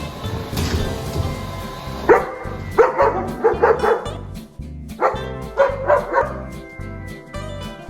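German Shepherd barking in two quick volleys of short barks, starting about two seconds in, over background music.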